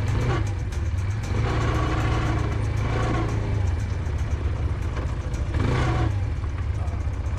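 Quad bike engine running steadily as the bike is ridden.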